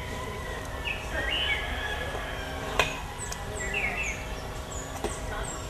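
Birds chirping over a steady outdoor background hum: a few sweeping calls early on, then a quick run of short, high chirps that each drop in pitch. A single sharp click about three seconds in.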